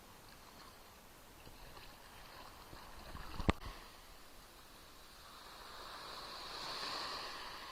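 Small Black Sea waves lapping and splashing on the shore, one wash swelling and fading near the end. A single sharp click or knock about halfway through.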